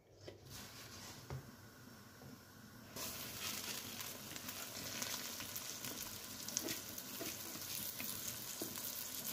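Vermicelli frying in hot oil in a pan, sizzling steadily while it is stirred with a silicone spatula; the sizzle gets louder about three seconds in.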